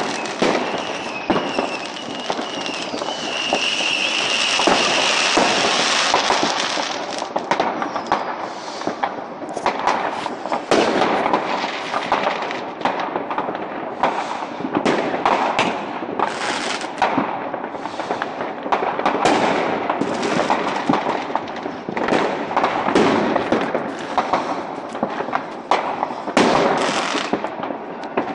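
Many fireworks going off at once: a continuous, overlapping run of bangs and crackling, with a high hiss in the first six seconds.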